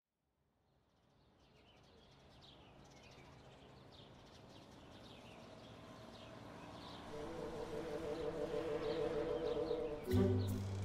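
Street ambience fading in, with small birds chirping repeatedly over a low steady hum. About ten seconds in, a louder, deeper sound with steady low tones cuts in.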